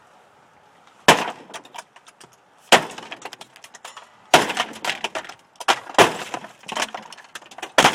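Sledgehammer smashing an old refrigerator: five heavy blows about a second and a half apart, each followed by crunching and clattering of breaking parts.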